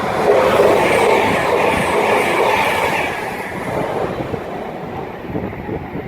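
A train passing close by on the main line: loud rushing rail noise that peaks about half a second in and slowly dies away.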